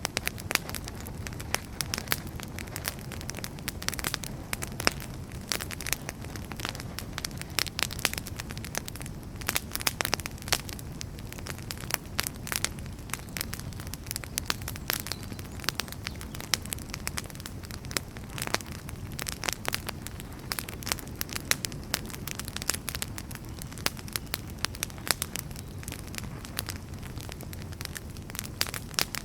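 Wood fire burning with a steady low rumble and dense, irregular crackles and pops from the burning firewood.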